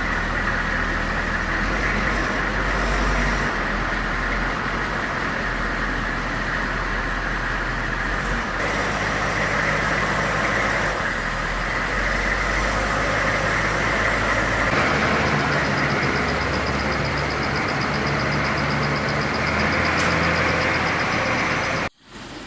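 Motor vehicle engine running steadily under a constant rushing road noise, with abrupt changes in the low hum every few seconds.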